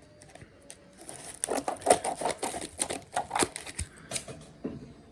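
Parcel packaging crinkling and tearing as it is opened: a rapid run of crackles starting about a second in and dying away near the end.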